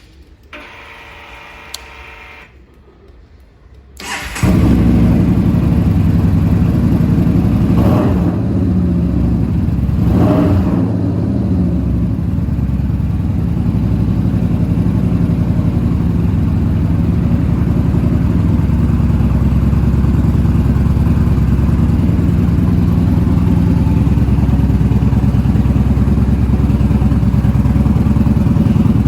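Yamaha Bolt's air-cooled V-twin with an aftermarket Vance & Hines exhaust being started: a faint whir, then the engine catches about four seconds in. It is blipped twice and then settles into a steady idle.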